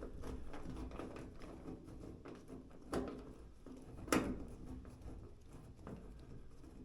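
Faint scratching and small ticks of a screwdriver working a Phillips screw out from under a GE dryer's front panel, with two louder sharp clicks about a second apart midway through.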